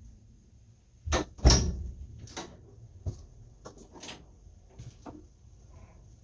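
A series of irregular knocks and bumps, about a dozen in all, the loudest about a second and a half in.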